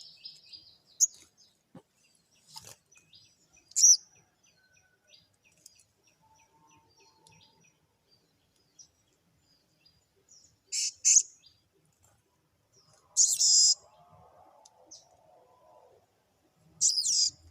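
Small birds chirping with sharp, high calls: one about four seconds in, two quick ones around eleven seconds, a longer burst around thirteen seconds and another near the end, with faint ticking calls between.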